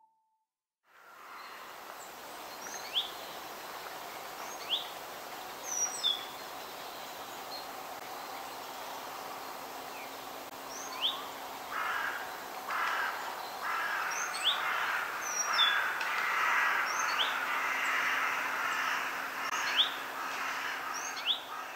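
Outdoor ambience: a steady background hiss with short, quick rising bird chirps every second or two. A louder, denser noise swells in about halfway through.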